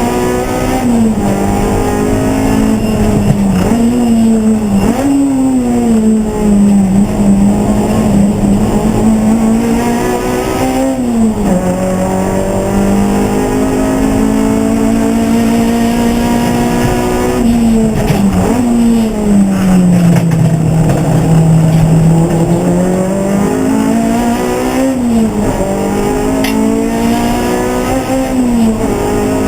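Race car engine at full racing load, its pitch climbing and dropping back again and again through gear changes and braking, with a longer slow dip and climb about two-thirds of the way through.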